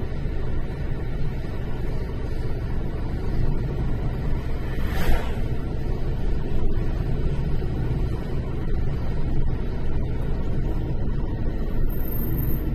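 Steady low rumble of a car's engine and tyres heard from inside the cabin while driving, with a short louder swish about five seconds in.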